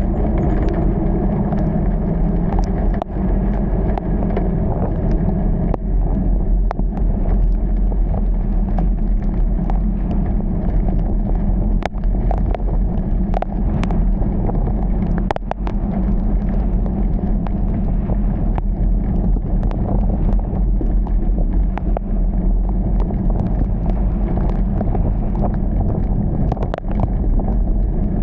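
A car driving in heavy rain: a steady low rumble of engine and tyres on a wet road, with scattered sharp taps throughout.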